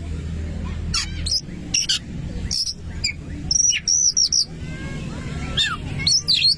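Oriental magpie-robin (kacer) singing: bursts of sharp, high whistled notes and quick up-and-down slurred phrases, with a steady low hum beneath.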